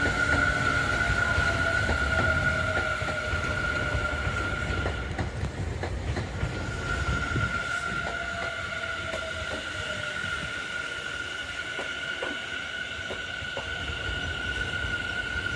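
A Tobu Tojo Line electric train passing: the low rumble of the cars, with scattered clicks of wheels over the rail joints, a steady high squeal and a lower whine falling slightly in pitch. The rumble eases after about seven seconds while the squeal goes on.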